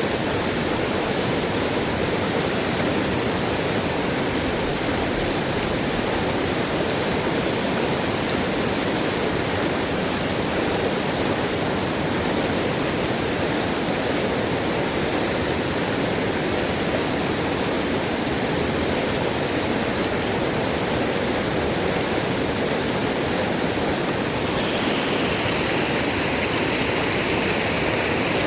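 Fast-flowing, rising river water rushing steadily. The upper hiss changes tone about 25 seconds in.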